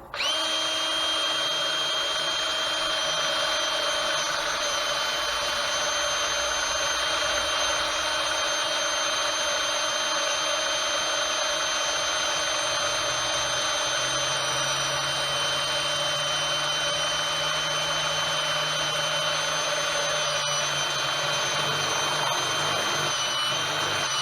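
Electric drill running steadily as it drills a hole through a metal mill part, a continuous motor whine. Near the end the bit binds up and the pitch dips briefly.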